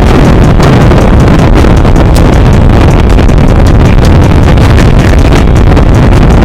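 Motorcycle engines running with heavy wind buffeting on the microphone, loud throughout.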